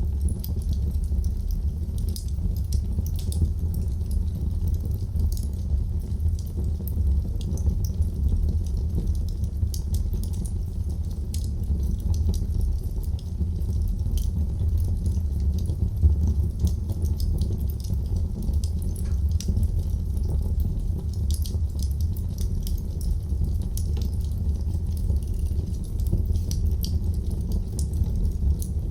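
Wood fire burning in a fireplace: a steady low rumble of flames with many small, irregular crackles and pops throughout.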